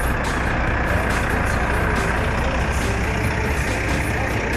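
Heavy long truck's engine running steadily while the truck is manoeuvred at low speed, a constant low hum with no sharp events.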